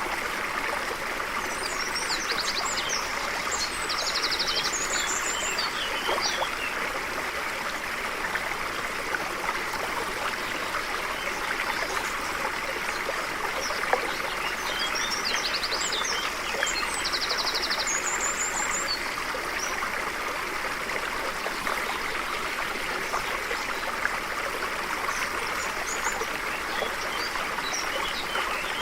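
A stream running steadily, with a songbird singing high chirps and trills twice: a few seconds in, and again about halfway through.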